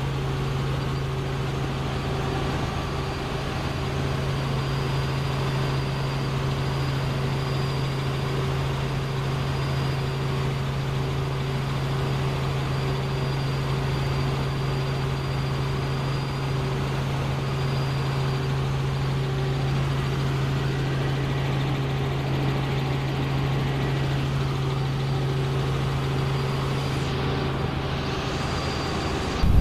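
Helicopter in flight: a steady engine-and-rotor drone with a constant low hum and a faint high whine.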